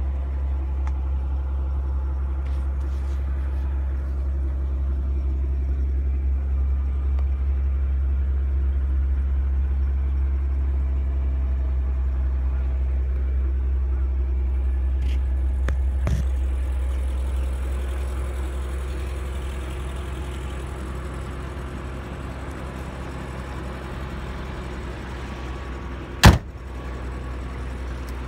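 Nissan Fairlady Z (Z32) twin-turbo V6 idling with a steady low hum, a little quieter in the second half. A single sharp knock about two seconds before the end.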